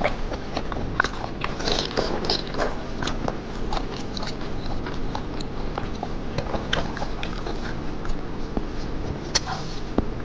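Close-up eating sounds of someone eating seafood: wet chewing and sucking with many small sharp clicks and crackles scattered throughout.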